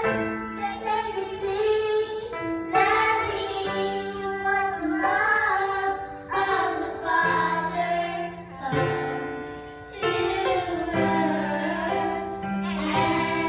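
A child singing a melody with instrumental accompaniment, the low accompanying notes held and changing every couple of seconds.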